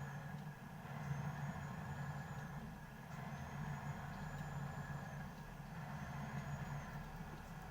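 Steady road and engine noise inside a moving car's cabin, a continuous low hum. A faint, thin, high-pitched tone comes and goes about every two seconds.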